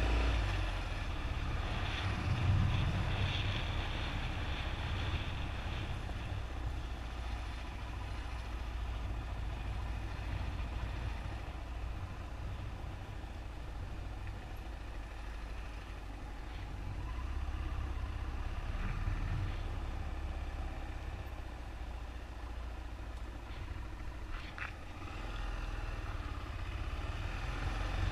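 Yamaha XT600E motorcycle's air-cooled single-cylinder four-stroke engine running steadily while riding. Its note swells briefly a couple of times with the throttle.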